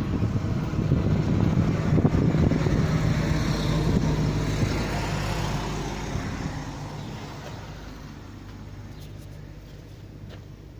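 A motor vehicle's engine running close by with a steady low hum, then fading away over several seconds as it moves off.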